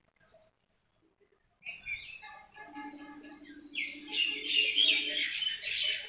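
Several birds chirping and calling, starting about a second and a half in after near silence and growing busier toward the end, with a low steady tone under the calls in the middle.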